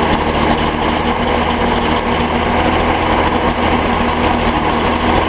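Datsun 280Z's L28 straight-six engine running steadily soon after a cold start, with a replacement fuel injector fitted where a lean injector was causing a misfire; it runs much better, pretty smooth.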